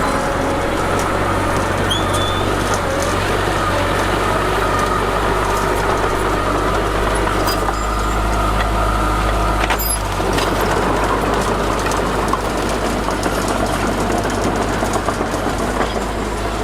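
Heavy diesel earthmoving machinery running under load, a continuous engine rumble that grows heavier about halfway through. Thin metallic squeals and a couple of sharp clanks come through over it.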